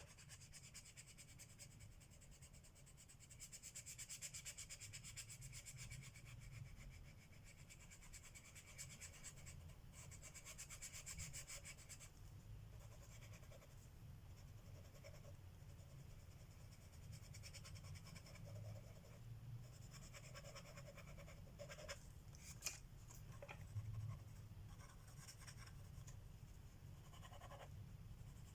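Colored pencil scratching faintly on paper in quick back-and-forth shading strokes, with a couple of sharp clicks about two-thirds of the way in.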